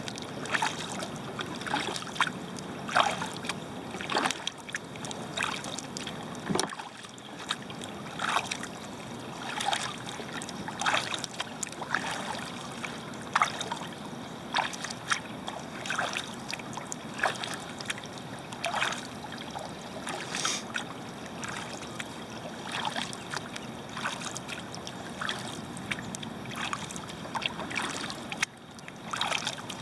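Kayak paddle blades dipping into flat lake water and dripping as they lift, stroke after stroke, about one splash a second.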